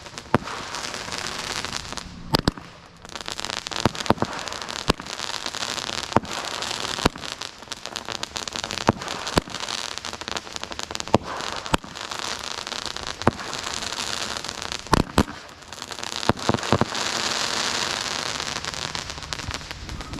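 Consumer firework going off: a continuous fizzing, crackling hiss broken by many irregular sharp pops, dipping briefly twice.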